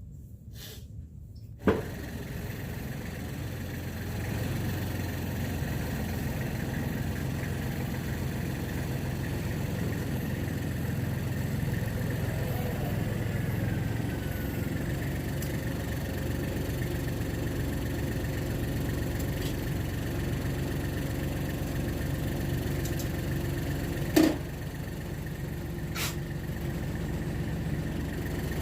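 An engine idling steadily. It starts with a sharp knock under two seconds in, and a second loud knock comes near the end.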